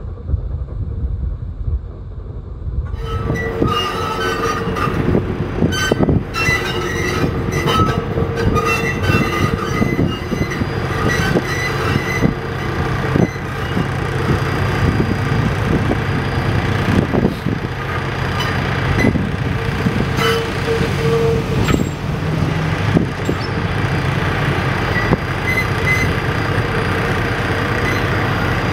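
A slow diesel-hauled train of subway cars on street track, led by GE 45-ton diesel-electric locomotives. It starts about three seconds in: the diesel engines run steadily while the wheels squeal on the rails and click over the joints.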